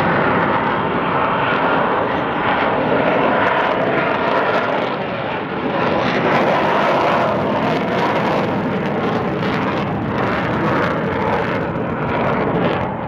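F-35 Lightning II's Pratt & Whitney F135 jet engine heard in flight, a loud, steady jet noise with only a slight dip about halfway through.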